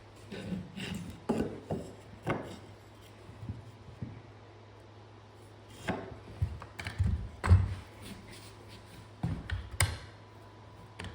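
Scattered wooden knocks, clatters and rubbing as lumber is handled and set in place, with a louder knock about seven and a half seconds in.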